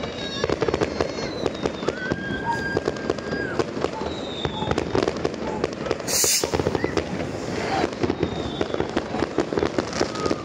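Fireworks going off all around: dense crackling and popping bangs throughout, with a few thin whistles sliding down in pitch and a short loud hiss about six seconds in.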